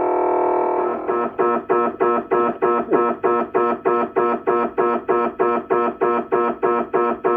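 MRI scanner's gradient coils sounding during a scan: a steady loud buzzing tone, then about a second in a switch to a rhythmic pulsed beeping of about four pulses a second.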